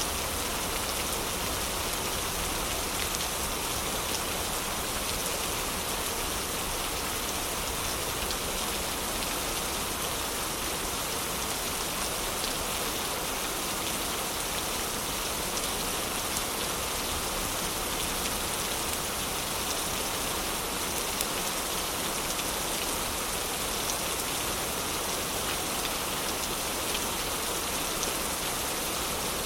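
Heavy rain falling steadily: an even hiss of rain on surfaces, with scattered individual drops ticking through it.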